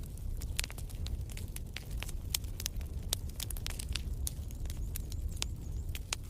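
Wood fire in a fireplace crackling, with irregular sharp pops and snaps over the low steady rumble of the flames.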